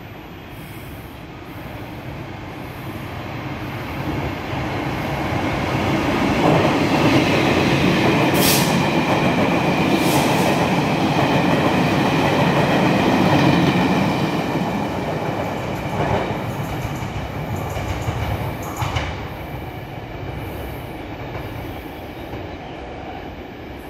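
Electric passenger train approaching and running through a station at speed without stopping: rumble of wheels on rail swelling to its loudest for several seconds in the middle, then fading as it goes away. A few sharp clacks over the rails stand out, two close together near the peak and two more as it recedes.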